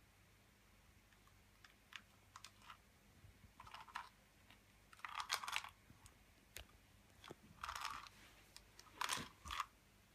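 A cat crunching dry treats: quiet, irregular bouts of chewing, louder about halfway through and again near the end.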